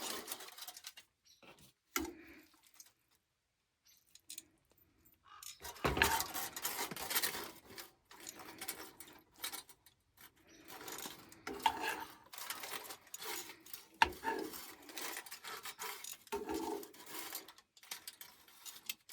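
Irregular clinks, clatter and scraping of a utensil against pots and dishes. Nearly quiet for the first few seconds, then busier from about six seconds in.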